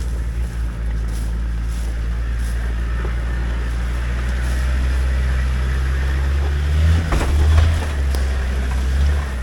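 Four-wheel-drive vehicle's engine running steadily at low revs, starting abruptly and rising briefly louder about seven seconds in.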